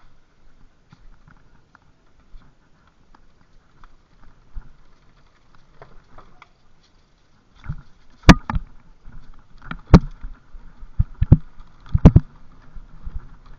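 Bicycle ridden along a rough forest trail: light clicks and rattles at first, then from about eight seconds in a run of sharp, loud knocks and clatters as it goes over bumps.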